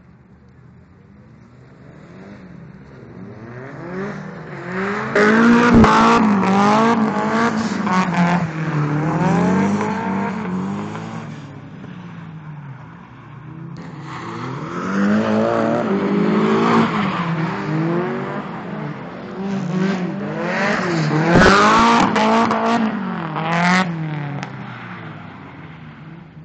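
Toyota KE70 Corolla drift car with a swapped-in Nissan SR20DE four-cylinder engine revving hard through two passes, the engine note rising and falling again and again with the throttle. The first pass builds to its loudest about six seconds in, and the second about twenty-one seconds in, each with a brief sharp crack.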